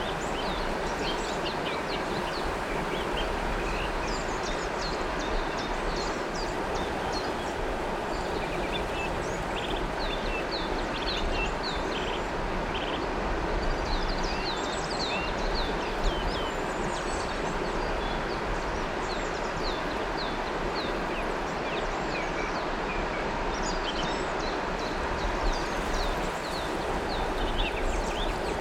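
River water flowing with a steady rush, while birds call in many short, quick high chirps throughout.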